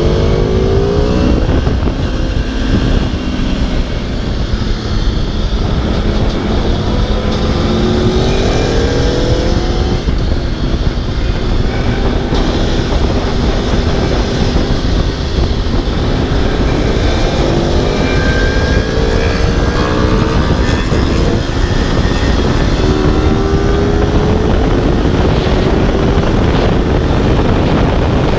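Aprilia RSV4 sportbike's V4 engine at full throttle, its pitch climbing again and again as it revs up through the gears, over heavy wind rush.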